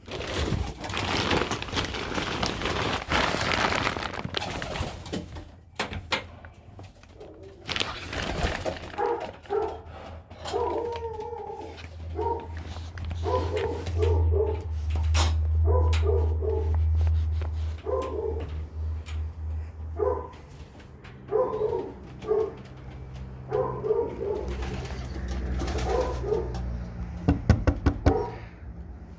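Racing pigeons cooing, many short repeated coos over the last two-thirds. A loud rush of noise fills the first few seconds, and a low rumble runs under the coos in the middle.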